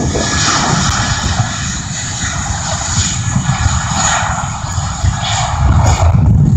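Airliner's jet engines passing close: a steady high whine over a deep rumble, with the rumble swelling again near the end.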